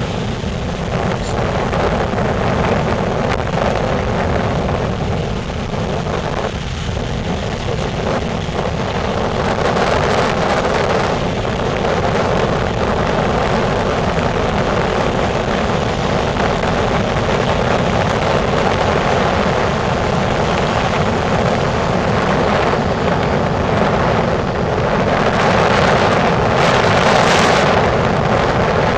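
Strong gusty wind from an approaching hurricane blowing across the microphone, with heavy surf breaking on the beach. A loud, steady rush that swells in gusts, strongest near the end.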